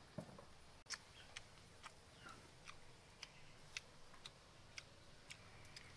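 A person chewing a mouthful of stir-fried beef: a run of small, sharp mouth clicks, about two a second.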